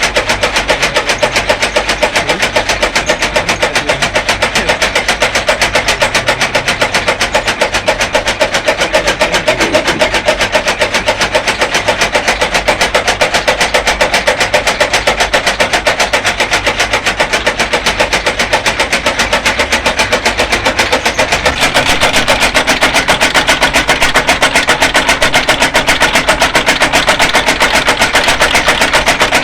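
Engine-driven fodder chopper (chaff cutter) running with a fast, steady knocking rhythm. It gets slightly louder about 21 seconds in.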